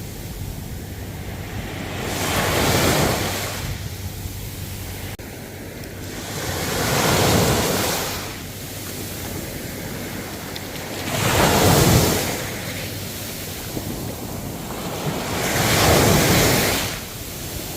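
Ocean waves breaking and washing up the shore, four surges that rise and fall about every four and a half seconds.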